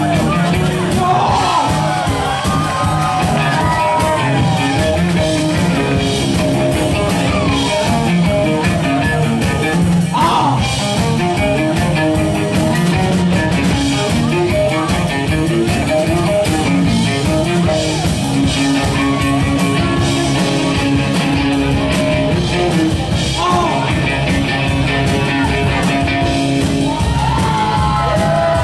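Loud rock jam: a steady drum beat under plucked strings, with sung or shouted vocal cries sliding in pitch now and then.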